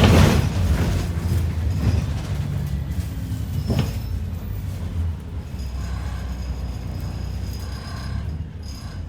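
ADL Enviro 400 double-decker bus heard from inside: the diesel engine running with a steady low hum, cabin rattles and a few sharp knocks, the noise slowly dropping away.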